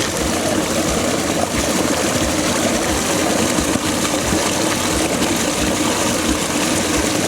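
Fast-flowing river under an ice crust, its strong current making a steady, loud rush of water.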